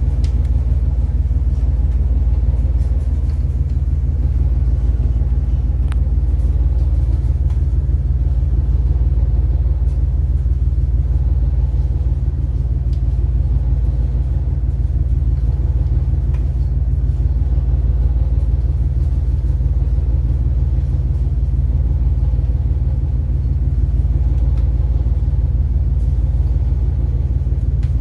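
A boat's engine running steadily: a deep, constant rumble with a steady hum above it.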